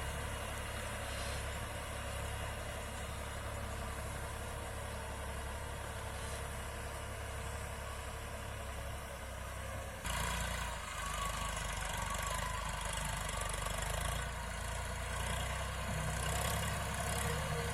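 Tractor engine running steadily while driving a boom sprayer; the sound steps up a little louder about ten seconds in.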